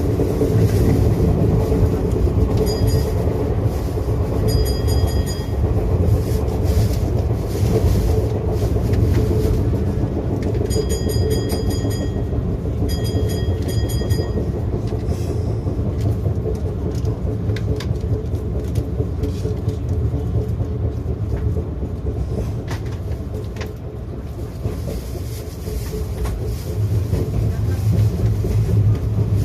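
Izu Kyuko 2100 series electric train running, heard from inside its front car: a steady rumble of wheels on rail with scattered clicks from rail joints. In the first half, several short runs of rapid high-pitched beeping cut in.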